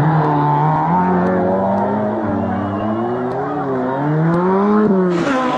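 Rally car engine revving hard, its pitch rising and falling repeatedly as the driver lifts and gets back on the throttle. About five seconds in, a sudden rush of hissing noise comes in.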